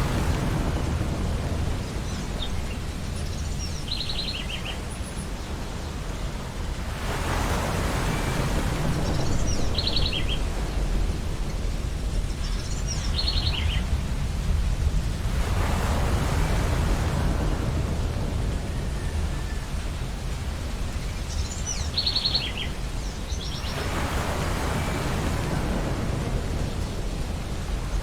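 Ocean waves breaking on a beach about every eight seconds over a steady low rumble of surf, with seagulls calling in short repeated notes now and then.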